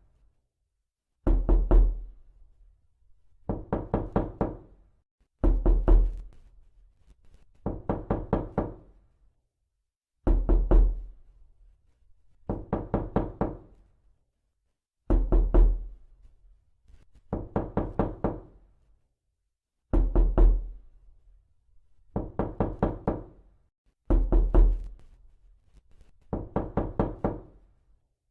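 Knocking, in bursts of four or five quick knocks, a new burst about every two seconds, repeated without change.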